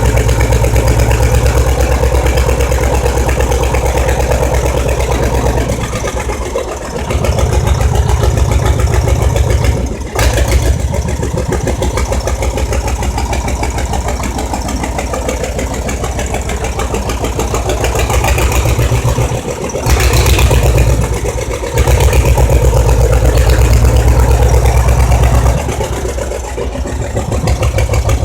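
1974 Fahr D47F tractor's diesel engine running, mostly at a steady idle, with the note and loudness shifting several times as the engine speed changes.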